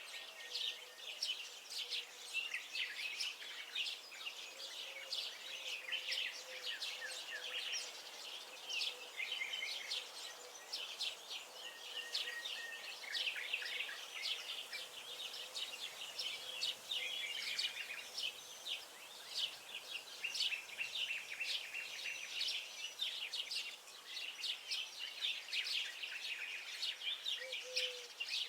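Several songbirds chirping and singing without a break, their quick high calls and trills overlapping in a dense chorus.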